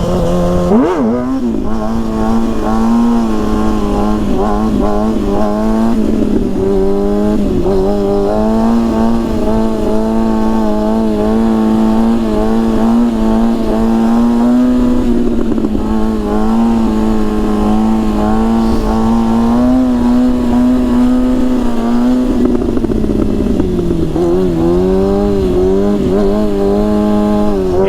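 Sportbike engine held at fairly steady revs in second gear, the throttle worked in small pulses to hold a long wheelie through a bend; about 22 seconds in the revs dip and climb back. Wind rumble on the microphone underneath.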